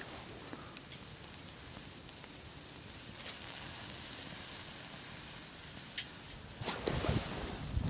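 Campfire burning with a steady hiss and a few faint crackles, then rustling handling noises near the end.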